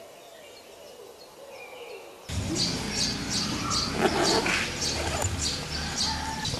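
Small birds chirping, a quick run of short high chirps several times a second, over outdoor background noise that comes in abruptly about two seconds in.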